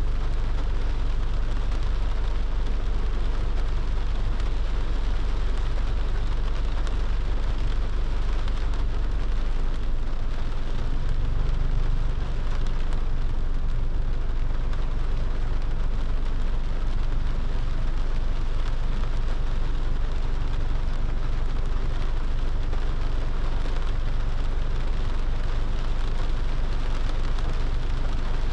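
A car driving in the rain: a steady hiss of rain and wet road over a low, even rumble from the car.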